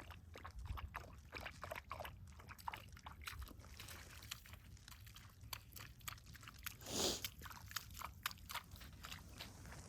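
Irregular crunching in wet, sticky snow, many short crisp crunches in a row, with a brief louder rush of noise about seven seconds in.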